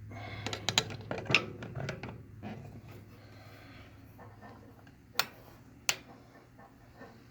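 Small metal clicks and clinks of Allen (hex) keys being handled and tried in a small set screw: a cluster of clicks in the first two seconds, then two sharp single clicks about five and six seconds in. A low steady hum runs underneath.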